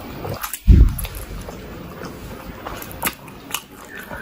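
Close-miked chewing and wet mouth sounds of someone eating steamed chicken momos, with scattered small clicks. A loud low thump just under a second in is the loudest sound.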